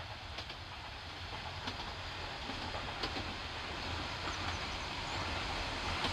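Noto Railway diesel railcar set approaching, a low engine drone and running noise growing steadily louder, with a few faint clicks.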